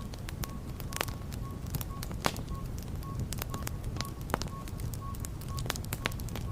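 Wood fire burning in a fireplace, crackling with frequent sharp pops of varying strength over a steady low rumble of the flames.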